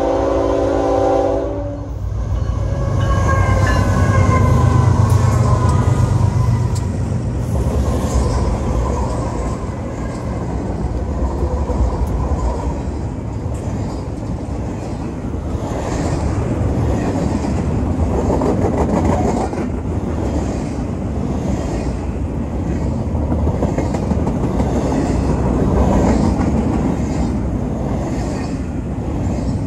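Diesel freight train horn sounding a chord, which cuts off about two seconds in. The locomotives then pass close by with a deep engine rumble and whines that fall in pitch. After them come the steady rumble, squeal-free rolling noise and rhythmic wheel clicks of double-stack intermodal well cars going by.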